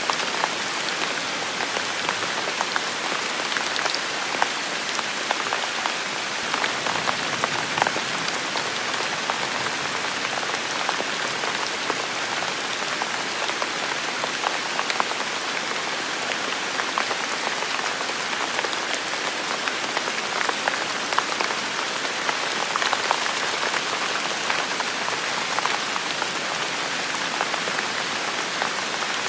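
Heavy rain falling steadily, with a dense hiss and many individual drops pattering close by.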